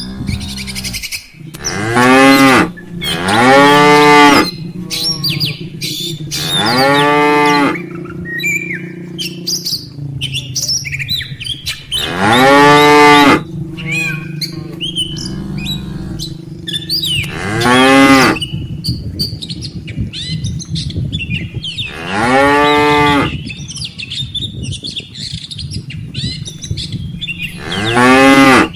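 A herd of cattle mooing: about seven loud moos, each about a second long and rising then falling in pitch, with quieter low calls from other cattle between them. Birds chirp faintly in the background.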